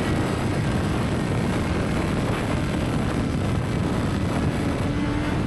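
Steady wind rush and engine drone from a motorcycle riding at highway speed, heard from the rider's position.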